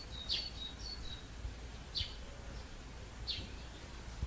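A small bird chirping: three short, high chirps that fall in pitch, spaced about a second and a half apart, the first mixed with a few brief whistled notes, over a faint low rumble.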